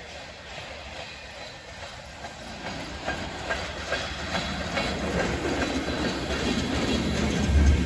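Freight train rolling past, its wheels clicking over the rail joints in an irregular rhythm. The train gets steadily louder from about a third of the way in, with a heavy low rumble near the end.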